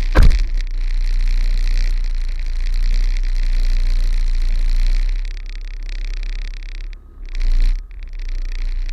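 Kenworth truck's diesel engine running at a low steady rumble while reversing, with a sharp thump just after the start.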